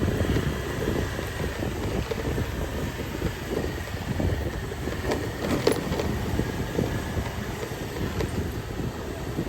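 Street ambience with motor vehicles running by as a steady rumble, scattered small knocks and clatter, and one sharper click about five and a half seconds in.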